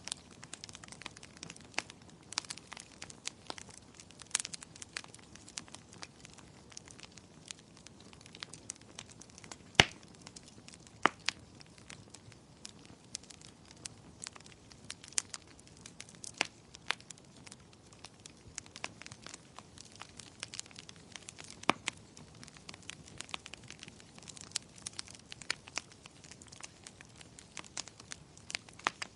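Wood fire crackling: a steady run of small irregular pops and snaps over a faint hiss, with a few louder pops scattered through.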